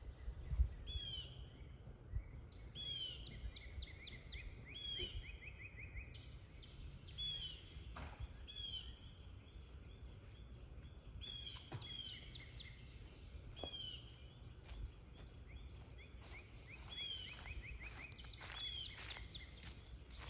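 Songbirds calling outdoors: a short downward-sliding call repeated every second or two, with now and then a quick run of trilled notes. A steady thin high-pitched tone and a low wind-like rumble sit underneath.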